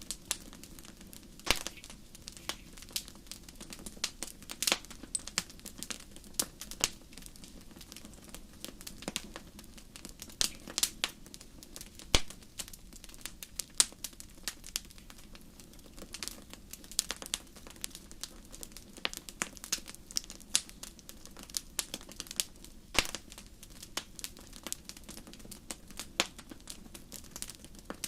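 Wood fire in a fireplace crackling, with irregular sharp pops and snaps over a steady low hiss.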